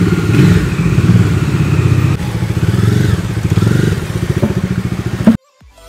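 Bajaj Dominar 250's single-cylinder engine running at low revs as the motorcycle is ridden slowly away, with the revs rising and falling a little. The sound cuts off suddenly near the end.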